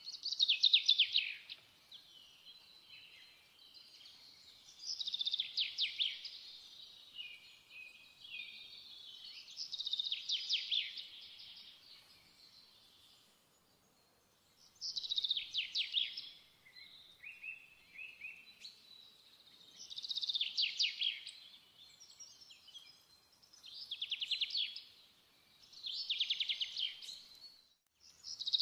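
A bird singing: loud, high, rapidly trilled phrases of about a second each, repeated every few seconds, with softer twittering between them.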